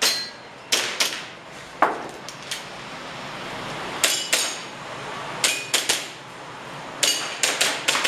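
Airsoft pistol fired in quick pairs and short strings of shots during a practical-shooting stage: sharp cracks, some followed by a brief metallic ring.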